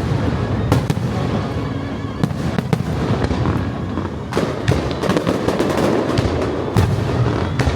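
Fireworks display: many sharp bangs in quick, irregular succession over a continuous low rumble.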